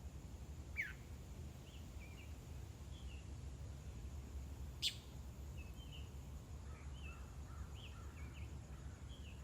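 A bird calling in short, scattered chirps, with two sharper, louder downward-sweeping calls about a second and five seconds in. A steady low rumble runs underneath.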